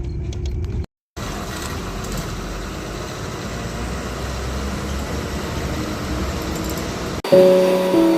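Steady low rumble of a vehicle on the move, broken by a brief dropout to silence about a second in. Near the end it cuts abruptly to background music.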